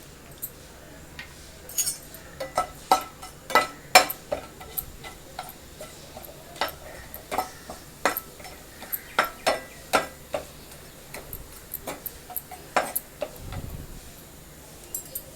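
A spoon clinking and scraping against a cooking pan in irregular sharp taps while spices are stirred in hot oil.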